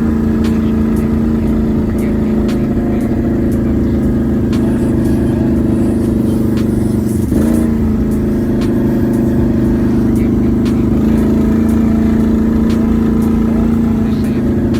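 Can-Am Renegade 1000 XMR ATV's V-twin engine running steadily at a fast idle. Its pitch briefly dips and recovers about seven seconds in.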